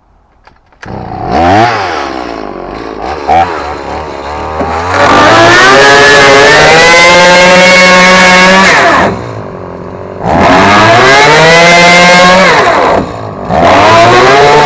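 A chainsaw starts up about a second in and revs unevenly. It then runs at full throttle in three long stretches, dropping briefly to a lower pitch twice, as it cuts through a fiberglass boat hull.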